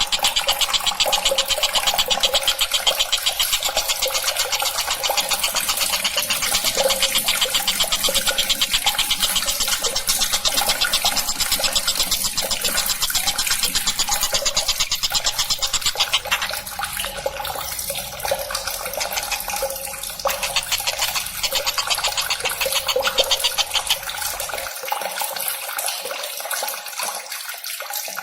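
Bird-song training track of the tengkek buto: a continuous, very rapid buzzing rattle, with a hissing, water-like texture, that thins out about two-thirds of the way through.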